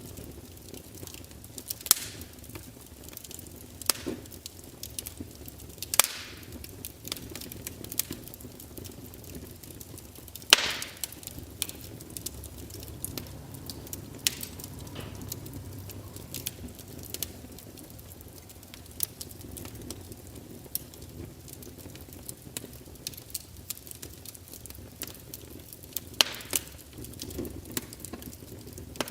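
Fire crackling: irregular sharp pops and snaps over a low steady rumble, the loudest pop about ten seconds in.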